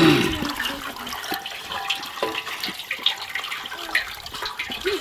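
Water running and splashing, with scattered small clinks and knocks.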